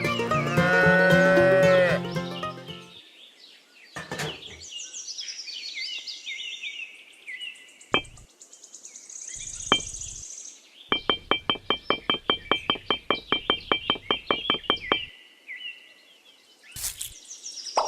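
A cow mooing for about two seconds. It is followed by scattered high chirps and single knocks, then a quick run of clicks, about six a second, lasting some four seconds.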